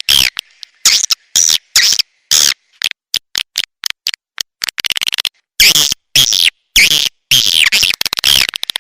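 Recorded edible-nest swiftlet calls played as a lure sound: rapid high chirps and twitters in short bursts with brief gaps, and a fast run of clicks about five seconds in.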